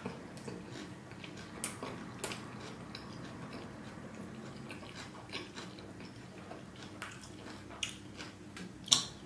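Close-miked chewing of a mouthful of veg tortilla wrap with the lips closed, with short wet mouth clicks and smacks scattered through; the loudest smack comes near the end.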